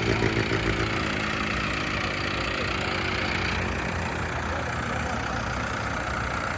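Modified turbocharged tractor's diesel engine coming down from high revs, its pitch falling over the first two seconds or so, then running steadily at idle.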